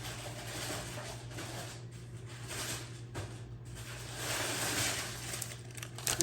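Rustling and light handling of plastic household items and their packaging, coming in uneven patches and fullest a little past the middle, over a steady low hum.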